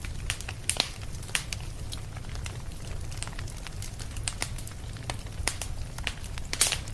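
Fireplace fire crackling, with irregular sharp pops over a steady low rumble; one louder pop comes near the end.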